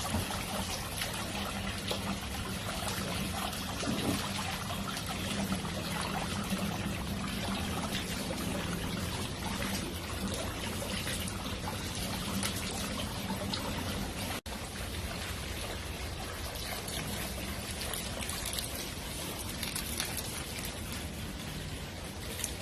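Water running steadily from a garden hose, trickling and splashing onto the ground.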